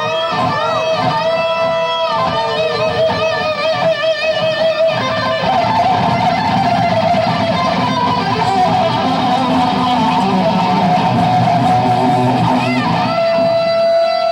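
Live band music led by an electric guitar playing sustained, bent notes with a wavering vibrato over a bass backing, ending on a long held note.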